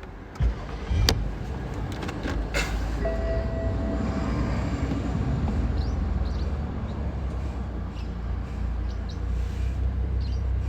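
A car's low steady rumble, setting in after a few clicks and a thump in the first second or so.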